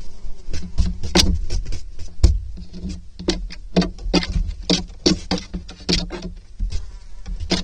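Irregular taps and scratches, several a second, from a barn owlet moving about on the floor of a nest box, over a steady low hum.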